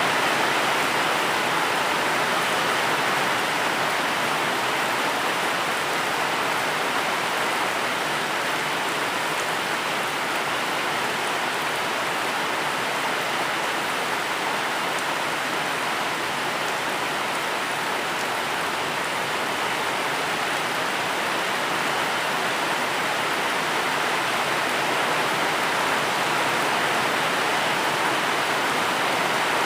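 Steady rain falling, a continuous even hiss with no single drops standing out.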